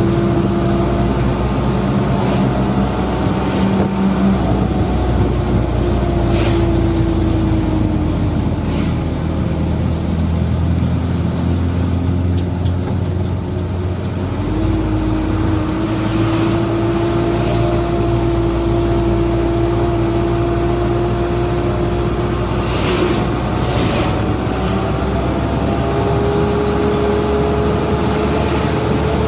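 Dump truck engine running under way, a loud steady drone. Its note sags from about eight to fourteen seconds in, jumps up about fifteen seconds in, and then climbs slowly.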